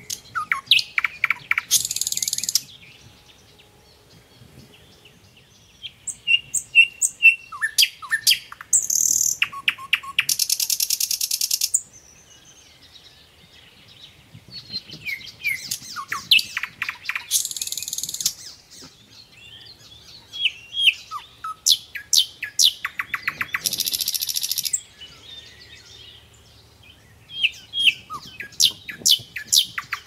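Songbird singing: phrases of quick down-slurred chirps running into a buzzy, high trill, repeated every six or seven seconds with short pauses between.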